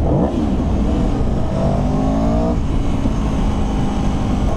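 Aprilia Tuono V4 1100 RR's V4 engine under way, revs climbing twice under light throttle, then dropping and settling to a steady cruise, with wind rushing over the microphone.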